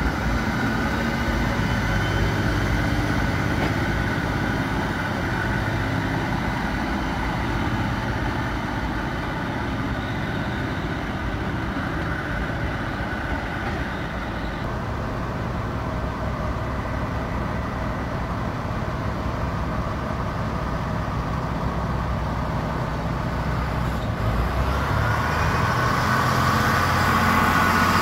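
Railway train running steadily: a continuous mechanical rumble with a faint whine, growing louder in the last few seconds.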